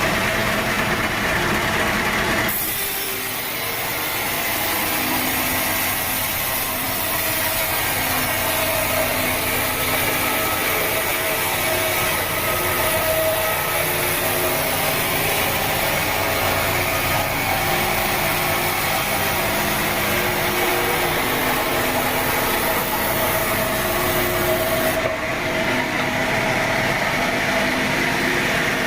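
Sawmill saw cutting lengthwise through a teak log: a steady, loud hiss of the blade in the wood starts a couple of seconds in and stops near the end. Under it the saw's motor runs steadily.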